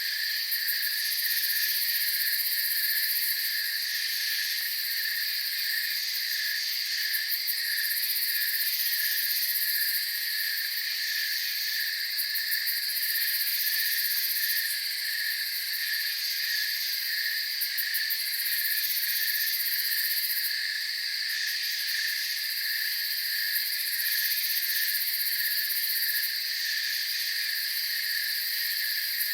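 Night insect chorus of crickets chirping in several overlapping layers: one regular pulsing chirp, a steady high trill and higher buzzing that comes and goes.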